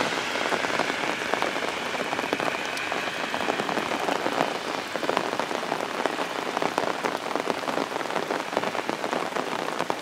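Heavy downpour: steady rain, with many sharp drops striking close by.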